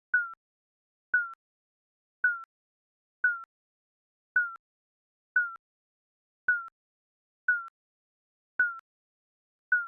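Digital countdown timer beeping: a short, high electronic beep once a second, about ten in all, each with a slight drop in pitch as it starts.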